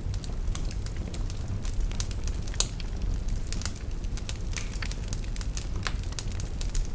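Wood fire burning in a fireplace: a steady low rumble of flames with frequent irregular crackles and pops, one sharper pop about two and a half seconds in.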